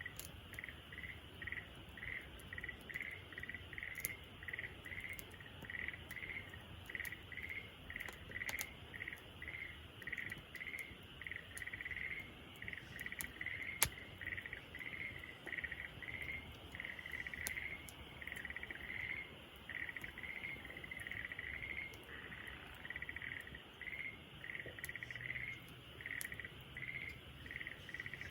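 Crickets chirping in a steady rhythm, somewhat under two chirps a second, over the scattered sharp pops of a wood campfire crackling, one pop louder about fourteen seconds in.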